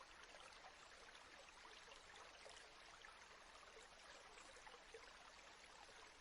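Near silence: a faint, steady hiss with small scattered crackles.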